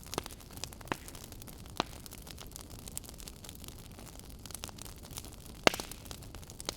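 Wood fire crackling in a fireplace: scattered sharp pops and snaps over a soft steady hiss, the loudest pop coming near the end.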